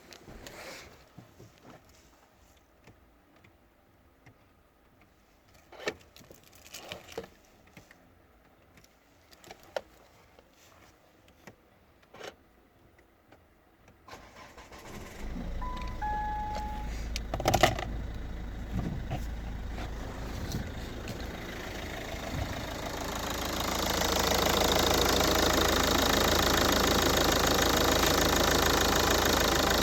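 Ford Kuga 2.0 TDCi (G6DG, 136 hp) diesel engine being started after a stretch of faint clicks. About halfway through it starts up, with a few short electronic beeps and a knock, and settles into running. About 23 s in it gets louder and stays steady to the end.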